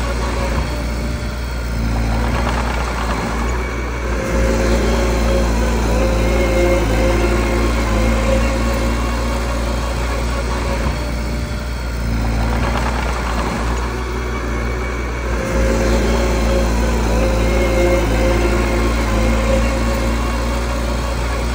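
Mini bulldozer's diesel engine running steadily, its note shifting a few times as it works under changing load.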